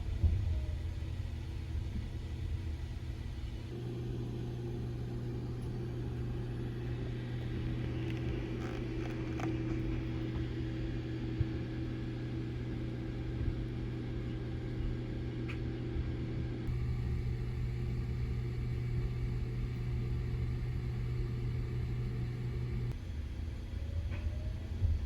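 Running noise of the Sunrise Izumo electric sleeper train heard from inside: a steady rumble with a low hum, shifting abruptly a few times.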